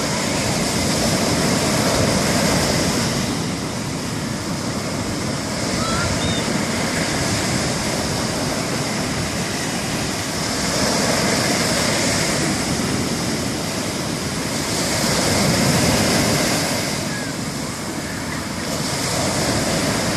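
Ocean surf breaking on a beach, a steady rush of water that swells and eases every few seconds as each wave comes in.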